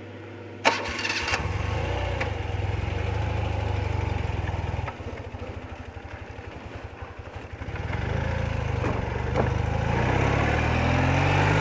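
BMW R80RT's 800 cc flat-twin engine starting with a sharp click and then running, settling into a quieter, slow, even idle from about five seconds in, then picking up again with the pitch rising near the end as it is revved.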